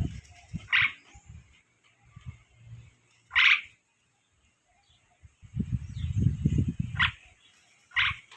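Asian pied starling (jalak suren) giving short, harsh single calls, four of them, the loudest about three and a half seconds in. Low rumbling noise sits between the calls, strongest about six seconds in.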